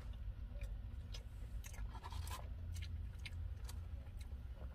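Eating sounds: short mouth clicks and a brief scratchy rustle about two seconds in, over a low steady rumble.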